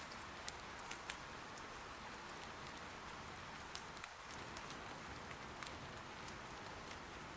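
Steady, soft rain hiss, with a few sharp pops from firewood crackling in an irori hearth.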